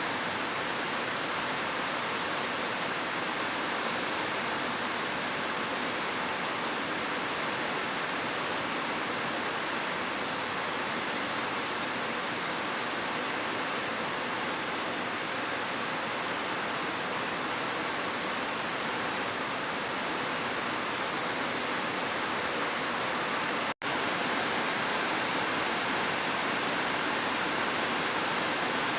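Heavy rain falling in a steady, dense hiss. The sound cuts out for an instant about three-quarters of the way through, then carries on as before.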